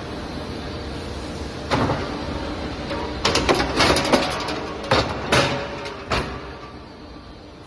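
Pallet repair flip table in operation: a steady mechanical hum with a series of sharp knocks and clatters, bunched about three to four seconds in. The hum fades down near the end.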